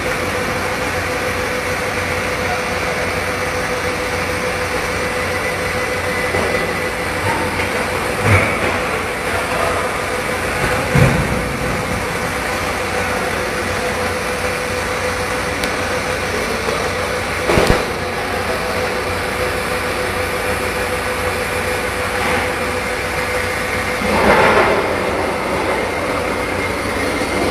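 Steady hum and hiss of running machinery, with a few short clunks scattered through.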